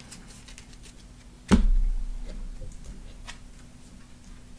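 A single sharp knock on the playing table about a second and a half in, with a low rumble after it, and a few faint clicks of cards being handled.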